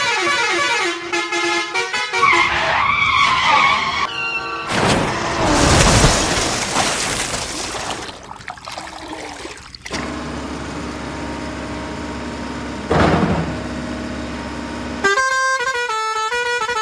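A soundtrack of vehicle sound effects: horn-like pitched tones, then a loud rushing noise and a steady low engine-like hum, with background music starting near the end.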